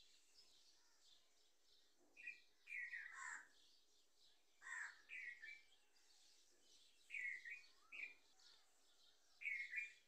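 Small birds chirping: clusters of short, downward-sliding calls come every couple of seconds over a faint high-pitched background chatter.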